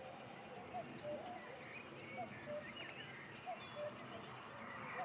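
Several birds calling over a steady outdoor background hiss: short, low, repeated notes about once or twice a second, with higher twittering chirps among them.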